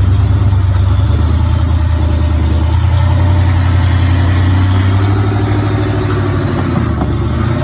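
A vehicle engine running steadily at low revs, a deep, even drone.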